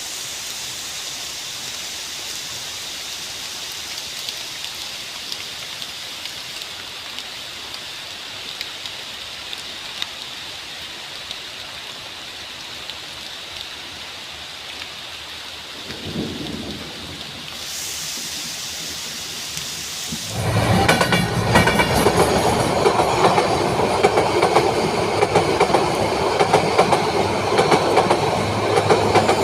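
Steady rain hiss, with a short low rumble a little past halfway. About two-thirds of the way in, a much louder train takes over: the rumble of railway cars and the rhythmic clickety-clack of wheels over rail joints.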